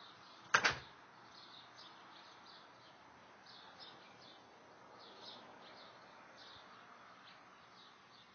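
A sharp double knock or clack about half a second in, over a faint outdoor background of short, high chirps repeating irregularly throughout.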